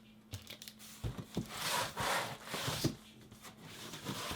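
Cardboard box and packing material rummaged through by hand: rubbing and rustling with a few light knocks.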